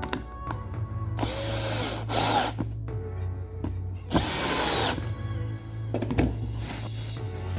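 Power drill driving screws into wood, run in two bursts: a longer one about a second in and a shorter one about four seconds in, the motor pitch dipping as each screw bites.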